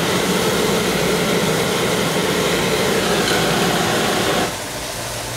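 A machine running with a steady, even noise and a low hum; the noise drops markedly about four and a half seconds in.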